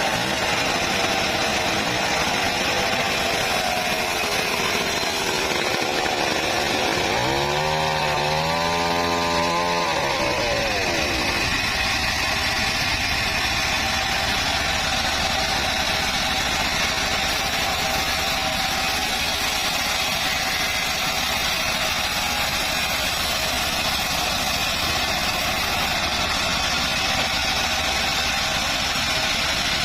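Two-stroke chainsaw running on acacia wood. Its engine pitch rises and falls in a rev about seven to ten seconds in, then it runs steadily.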